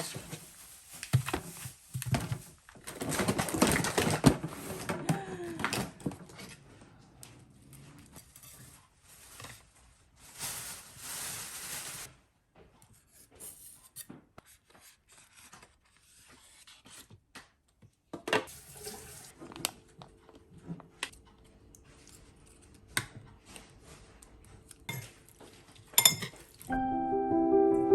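Assorted handling sounds in a small room: rustling bursts, clatters and sharp clicks that come and go, with gentle piano music starting near the end.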